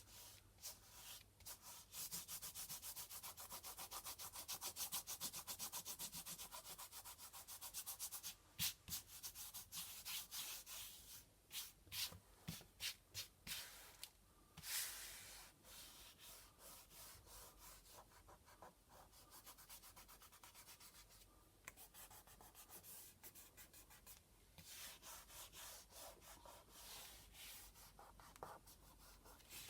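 Dried latex masking fluid being rubbed and brushed off a canvas: rapid, steady back-and-forth scratchy strokes for several seconds, then slower, irregular strokes with short pauses.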